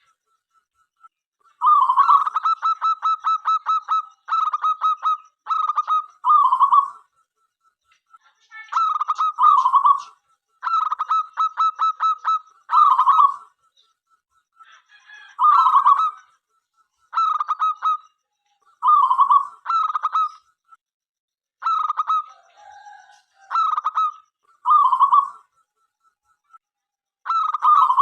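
Zebra dove (perkutut) cooing. It repeats short phrases of rapid, rolling coo notes, each ending in a louder, longer coo, every second or two.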